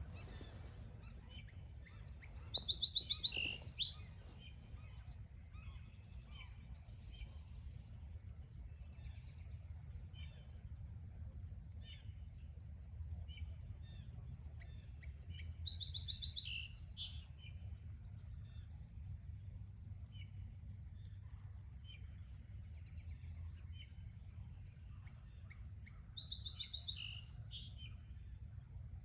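A songbird singing the same short song three times, roughly every eleven seconds: a few quick high introductory notes, then a fast trill and a couple of lower closing notes. Faint scattered chirps from other birds and a steady low rumble lie underneath.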